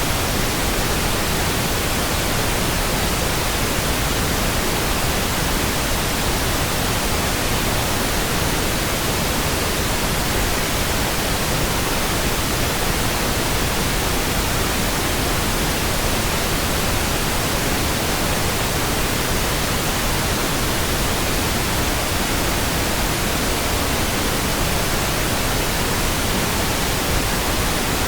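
Steady pink noise: an even, unchanging hiss spread across all pitches, with no tones or events.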